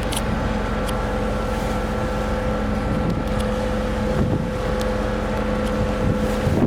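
Car ferry's engines running with a steady low drone and a constant hum, with wind buffeting the microphone and a few faint ticks.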